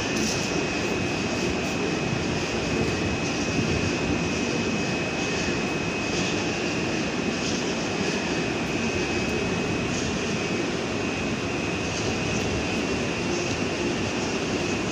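PESA Dart ED161 electric multiple unit running with a steady mechanical hum and a thin, constant high whine, its level not changing.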